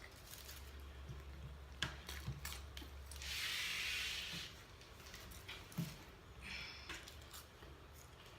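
Close-up eating and food-handling sounds: scattered small clicks and smacks, with a hissing noise for about a second in the middle and a shorter one a few seconds later.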